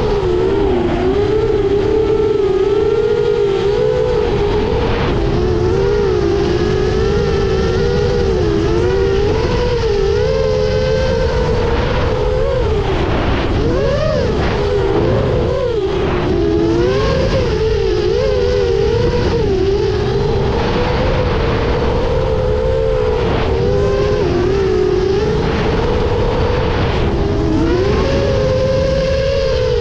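10-inch FPV freestyle drone's motors and propellers buzzing, the pitch wavering and gliding up and down as the throttle changes through manoeuvres. Several close motor tones beat against one another, with a rough wind-like rush underneath.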